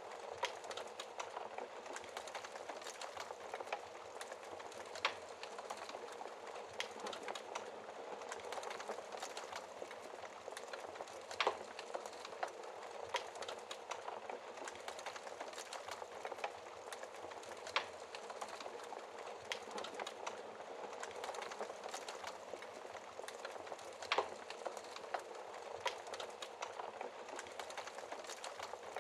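Wood fire crackling, with scattered sharp pops a few seconds apart over a steady hiss of rain.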